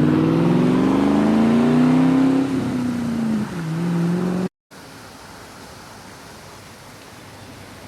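A car engine accelerating, its pitch rising for about two seconds and then falling back to a lower steady note as the car goes by. It cuts off abruptly a little past halfway, leaving a much quieter steady hiss.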